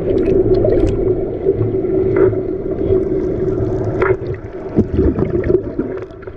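Boat engine running steadily with a constant hum, with water splashing against the hull now and then.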